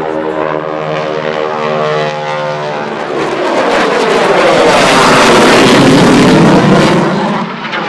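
Aircraft flying past: a steady engine drone, then a loud rushing noise that builds from about three seconds in, peaks, and falls away sharply near the end as it passes.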